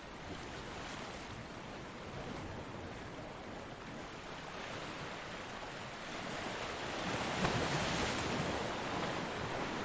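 Ocean waves washing on a beach: a steady surf hiss that swells into a louder breaking wave about two-thirds of the way through, then eases off.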